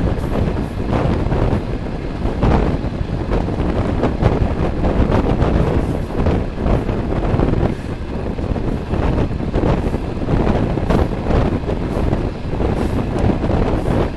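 Wind rushing over the microphone at the open window of a moving passenger train, over the steady rumble of the carriage running on the rails.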